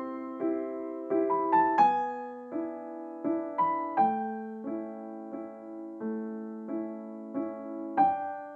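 Gentle background piano music: soft chords and single notes struck and left to ring, a few each second.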